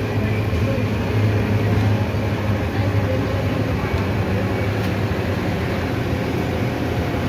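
Mercedes-Benz OF-1519 diesel city bus under way: a steady engine drone with road and body noise.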